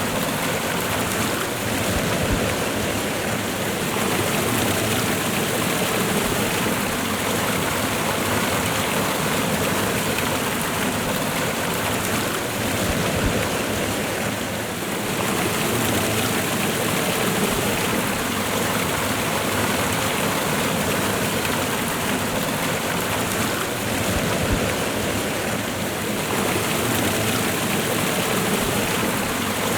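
Waterfall and fast-running river water rushing steadily, with no breaks.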